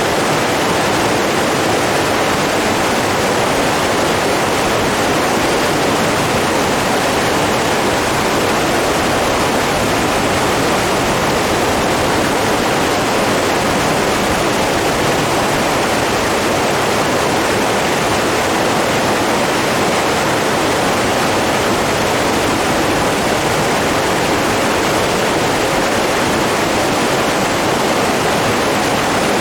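Running water: a steady, unbroken rush like a stream or small waterfall.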